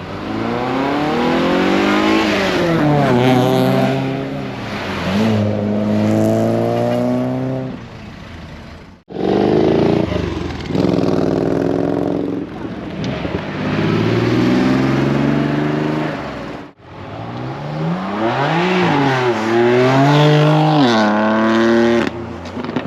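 Classic cars accelerating away one after another, engines revving up and dropping in pitch at each gear change. The audio breaks twice where the footage cuts to another car.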